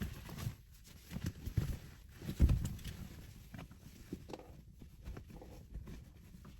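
Irregular light knocks and handling noises, with one louder thump about two and a half seconds in.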